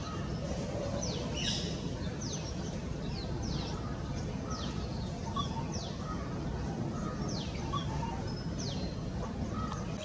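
A bird calling: a steady series of short, high notes, each sweeping quickly downward, about one a second, over a constant low rumble of background noise.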